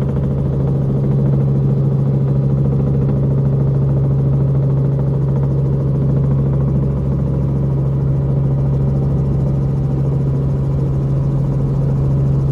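Helicopter in flight: engine and rotor running in a steady, loud drone with a strong low hum.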